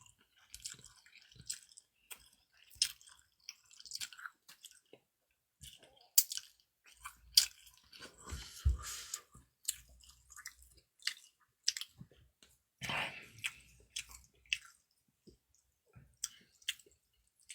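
A person chewing food close to the microphone: scattered soft wet clicks and smacks, with one longer, louder mouth noise about 13 seconds in.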